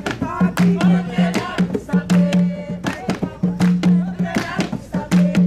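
Jongo music: hand-beaten drums playing a steady, fast rhythm while voices sing over them.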